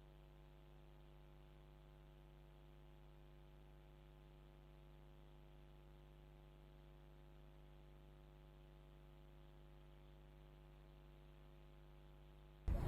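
Near silence: a faint, steady electrical hum, with a loud sound cutting in suddenly at the very end.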